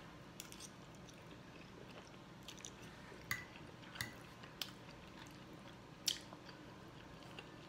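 Close-up chewing of a mouthful of spaghetti, with soft wet mouth sounds. A handful of sharp clicks are heard, a couple with a brief ring, as a metal fork taps the plate while more spaghetti is twirled.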